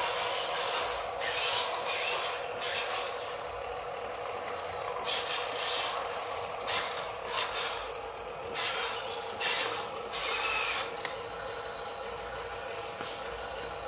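Small electric motor and gearbox of an RC toy dump truck whining steadily, with irregular scraping and rubbing noises coming and going over it.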